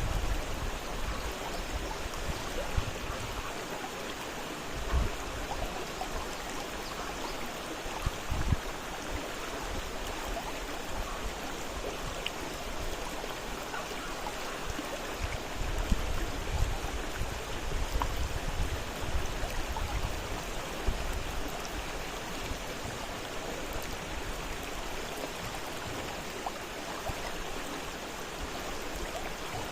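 Fast-flowing river water rushing steadily, an even wash of noise, with a few brief low rumbles now and then.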